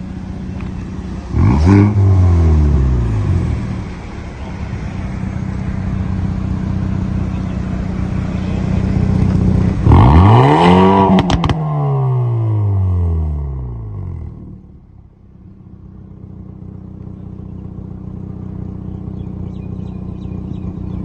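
Hyundai i30N's turbocharged 2.0-litre four-cylinder engine running under way, revved hard twice: briefly about a second in, then louder about ten seconds in. Each time the pitch climbs and then falls away as the throttle comes off. A few sharp cracks come at the top of the second rev, and the engine settles to a quieter run near the end.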